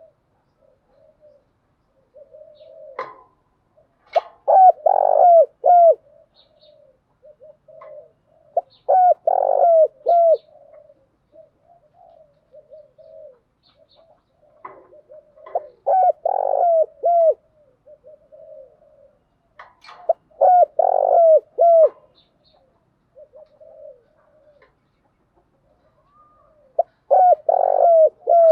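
Spotted dove cooing: five loud, rhythmic coo phrases of about two seconds each, coming every four to six seconds, with softer low cooing between them. This is the lure song (thúc gù, gáy gọi) played to draw wild doves.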